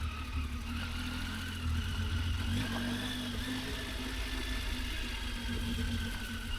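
Dual-sport motorcycle engine running steadily: a low rumble with a faint steady hum over it.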